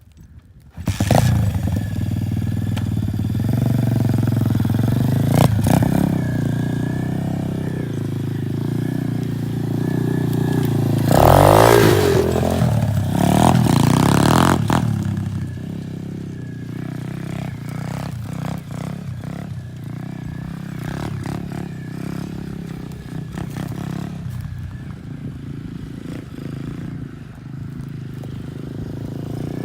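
Dirt bike engine starting up about a second in, then running and revving. It is revved hard with rising and falling pitch around the middle, then runs lower and steadier with scattered short knocks.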